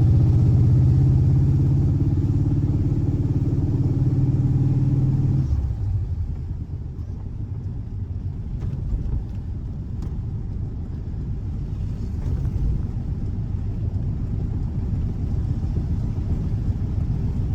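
A 1584cc air-cooled flat-four boxer engine running steadily at raised revs. About five and a half seconds in, its steady note breaks off and it settles to a quieter, rougher low rumble, like dropping back to idle.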